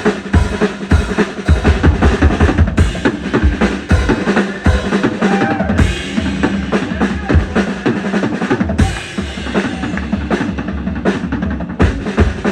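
Live band instrumental break: a drum kit keeps a steady beat of kick and snare with a bass line underneath.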